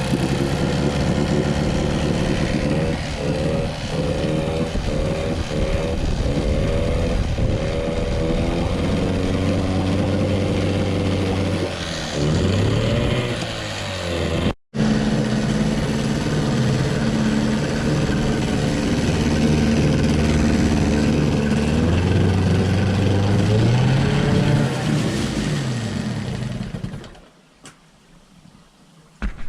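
Evinrude 9.9/15 hp two-stroke outboard running in a test drum, its pitch rising and falling several times as the throttle is opened and closed. It stops near the end.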